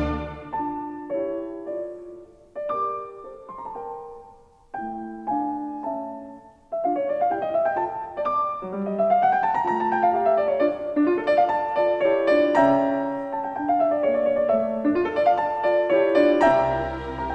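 Background music: solo piano playing a slow classical-style piece, sparse notes with pauses at first, then a fuller, continuous passage from about seven seconds in.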